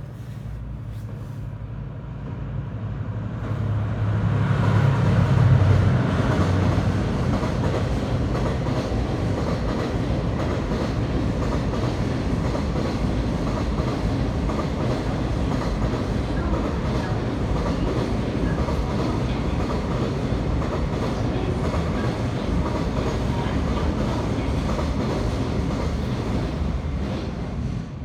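Freight train entering a station, hauled by a JR Freight DF200 "Red Bear" diesel-electric locomotive. The locomotive's engine hum builds and is loudest about five seconds in as it passes, then a long, steady clatter of freight wagons rolling past on the rails.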